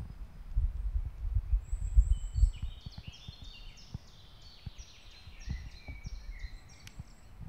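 Woodland ambience: a songbird sings a run of short, clear notes from about three seconds in, over low wind rumble that fades after the first couple of seconds.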